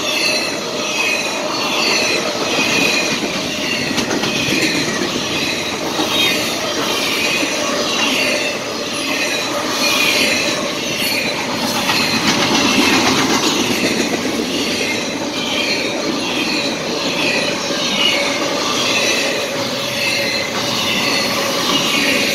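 Norfolk Southern intermodal freight train rolling past at close range, trailer-laden flatcars clattering over the rails with a steady rumble. Steel wheels give short, high-pitched squeals that repeat over and over.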